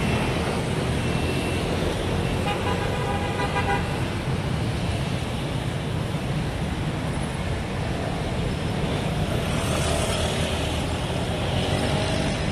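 Steady city road traffic running past, with a vehicle horn sounding for about a second and a half a couple of seconds in.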